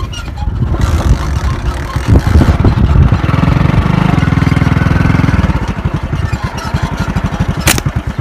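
An engine running close to the microphone with a fast, even pulse, loudest in the second half. A single sharp click comes near the end.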